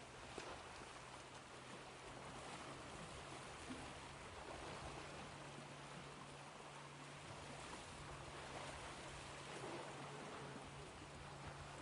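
Ocean waves washing ashore: a soft, steady surf noise that swells and eases only slightly.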